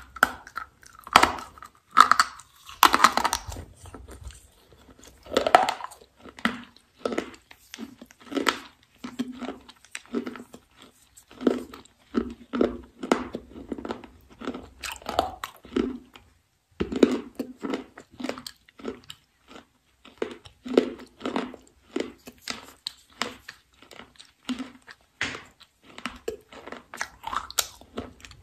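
Close-miked mouth sounds of a person biting into a thin, hard, brittle stick and chewing it, with repeated crisp crunches. There is a short pause about halfway through, then another loud bite.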